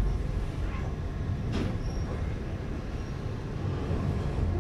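Moving train heard from inside the carriage: a steady low rumble of wheels on the rails, with one sharp clack about a second and a half in.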